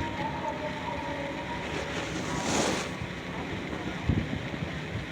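Outdoor ambient noise: a steady low rumble with wind buffeting the microphone. About halfway through, a whoosh swells and fades, and a short thump comes near the end.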